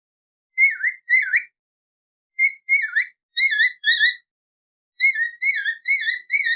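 Alexandrine parakeet (Raw parrot) chirping: short whistled notes that dip and rise in pitch, in three quick runs of two to five notes.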